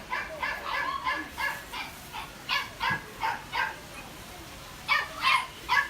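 Dogs yapping in short, high barks, several a second, with a lull about two thirds of the way through before the barking starts again near the end.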